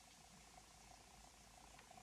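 Near silence: room tone with a faint, steady, fluttering hum.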